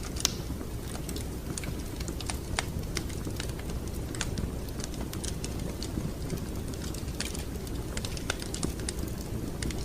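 Wood fire crackling: irregular sharp pops and snaps over a steady low rumble of burning logs. The loudest snap comes about a quarter of a second in.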